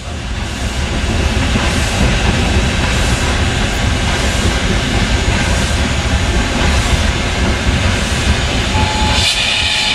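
Soviet class L 2-10-0 steam locomotive L-0022 working a train: a heavy low rumble with steam chuffs about once a second. Near the end the rumble drops and a brighter steam hiss comes in.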